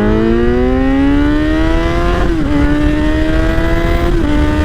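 Kawasaki Z900 inline-four accelerating hard through an aftermarket exhaust: the engine note climbs steadily, drops sharply with an upshift a little over two seconds in, climbs again, and drops with another upshift near the end.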